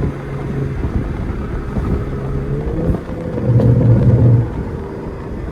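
Straight-piped, catless exhaust of a BMW 540i's turbocharged inline-six droning on the road, with a louder swell for about a second past the middle.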